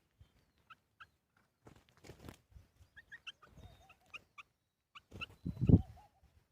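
Small birds giving short, high chirps, repeated a dozen or so times at uneven intervals, with scuffling noise and a loud thump about five and a half seconds in.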